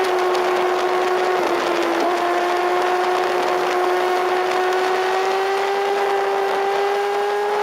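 Sport motorcycle engine running at steady high revs, its pitch creeping slightly upward, under a heavy rush of wind noise.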